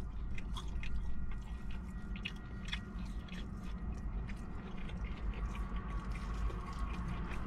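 A person chewing food close to the microphone, with many small crisp clicks and smacks, over a steady low rumble.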